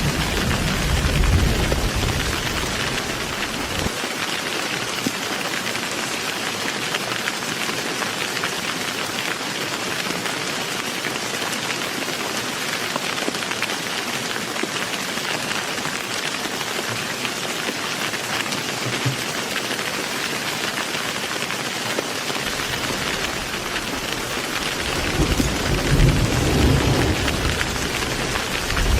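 Heavy rain falling steadily, with a low thunder rumble at the start that dies away within a few seconds, and another rumble building near the end.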